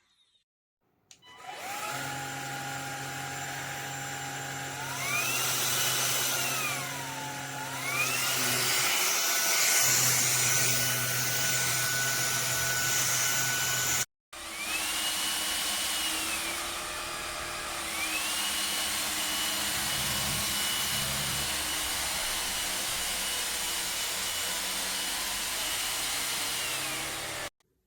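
Cordless stick vacuum cleaner with a brushless motor running, a steady whine with a rushing of air. Its pitch steps up and down several times as it is switched between power levels. It cuts out for an instant midway and stops abruptly near the end.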